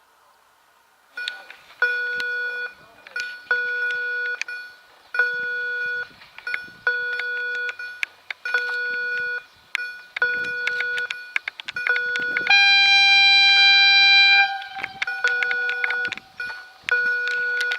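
Railway level-crossing warning signal beeping in a steady on-off rhythm, about one beep every one and a half seconds. Partway through, a long single horn blast of about two seconds sounds over it.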